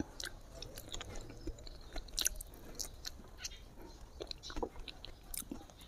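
A person chewing food with the mouth closed, picked up close by a clip-on microphone: irregular soft clicks and smacks.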